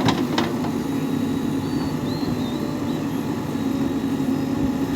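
Heavy diesel engine of a backhoe loader or tractor running steadily. Two sharp knocks sound right at the start, about half a second apart.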